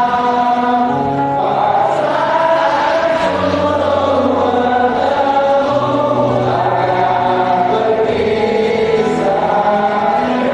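A group of voices singing a song together in long held notes, over steady low accompaniment notes that change every couple of seconds.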